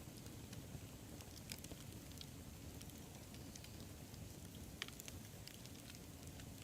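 Wood campfire burning: a steady low rush of flame with scattered sharp crackles and pops, the sharpest a little under five seconds in.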